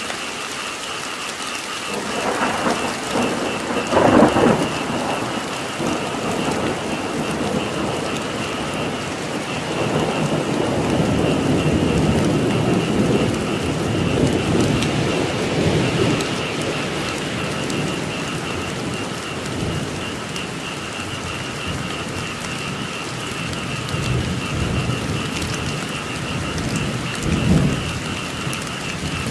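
Steady rain in a thunderstorm, with thunder rolling: a louder clap about four seconds in, long rumbling through the middle, and another peak near the end. Under it a steady, high chorus of frogs.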